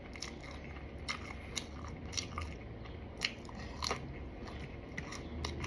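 A person chewing crisp fried food with the mouth close to the microphone: a run of short, irregular crunches and crackles, several a second at times.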